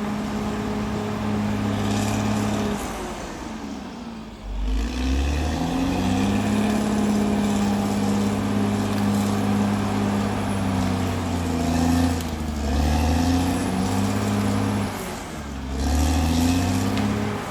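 CAT D6R bulldozer's diesel engine running hard, its revs dropping about four seconds in and picking back up, then dipping and recovering twice more.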